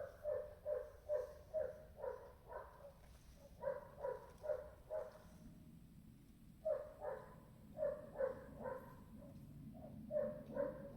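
A dog barking in quick runs of short, pitched barks, about two or three a second, in four bursts with brief pauses between them.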